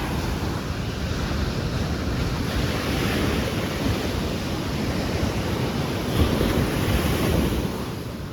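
Surf breaking and washing up on a beach, with wind gusting on the microphone. It swells loudest about six seconds in and eases off near the end.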